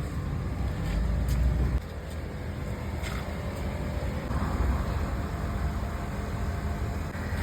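Low, steady rumble of a motor vehicle, swelling briefly about a second in.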